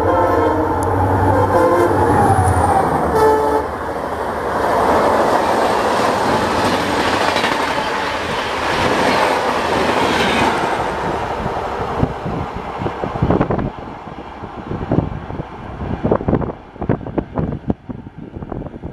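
A WDP4-class diesel locomotive sounds its multi-tone horn for about three and a half seconds as it runs in at speed. The passing passenger train then makes a loud, steady rush of wheels and air. From about twelve seconds in this breaks up into separate wheel clacks over the rail joints, fading as the coaches draw away.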